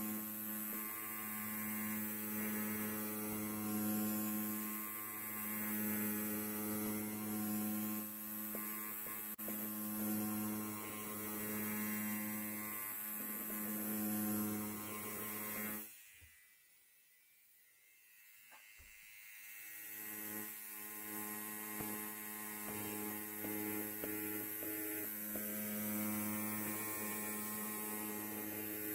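Electric hair clipper buzzing steadily. It cuts off suddenly about halfway through, stays off for about three seconds, then comes back and builds up to the same steady buzz.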